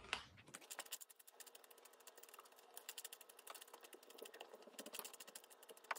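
Faint chewing of a bite of dill pickle spear: a sharper click at the bite, then a dense run of quick, soft crunching clicks. The pickle is soft and rubbery and gives little crunch.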